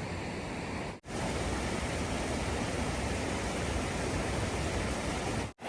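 Steady rushing noise of running water, broken by two short silent gaps, one about a second in and one near the end.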